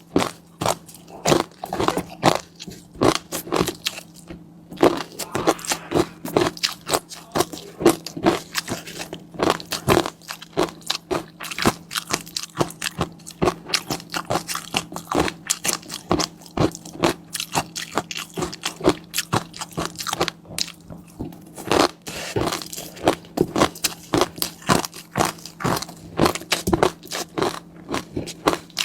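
Close-miked eating sounds: a person biting and chewing food with rapid wet crunching and popping, several sharp clicks a second with brief lulls. A steady low hum runs underneath.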